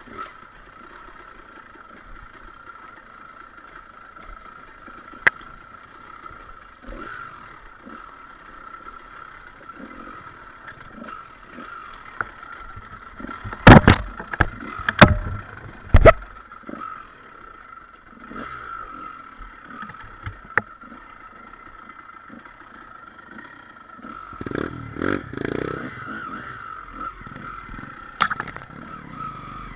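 Trail motorcycle riding over rough ground with a steady high whine and scattered clattering knocks. Three loud knocks come about halfway through, and the sound grows rougher near the end.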